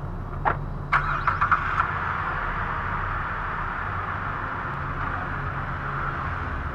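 A car engine starts: a single knock, then a brief cluster of clicks as it cranks and catches about a second in, after which it runs steadily at idle.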